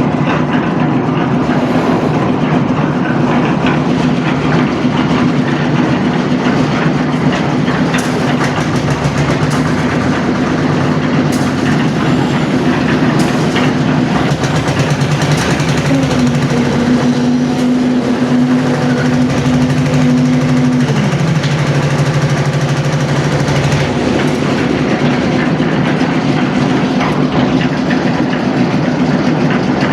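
A heavy engine, from machinery on a concrete-pouring building site, runs steadily. Its pitch shifts for a few seconds about two-thirds of the way through, then settles back, with some light clatter around the middle.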